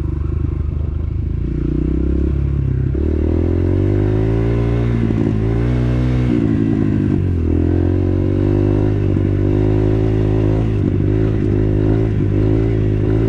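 Dirt bike engine running while riding, its pitch stepping up and down several times as the revs change.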